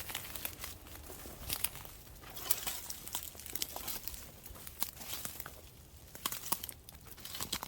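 Footsteps crunching and crackling through dry leaf litter and brush, in irregular bursts as someone pushes through undergrowth on foot.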